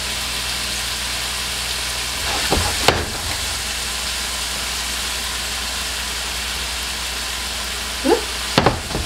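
Paneer cubes sizzling steadily in hot oil in a frying pan. There are two brief scraping sounds, about three seconds in and near the end, as the pan is handled.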